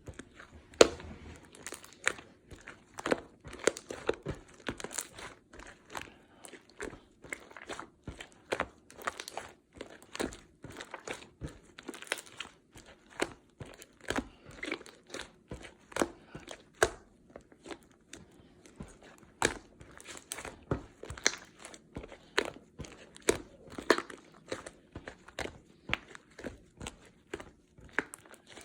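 Slime being squeezed, poked and pressed by hand, giving irregular sharp clicks and pops, a few a second.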